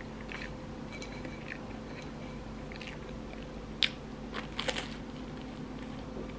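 A person biting and chewing toasted bread with egg: a sharp crunch of a bite about four seconds in, followed by a few softer crunches of chewing.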